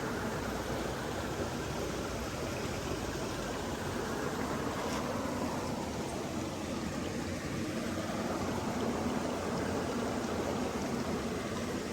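Running water from a stream, a steady rushing sound with no change in level.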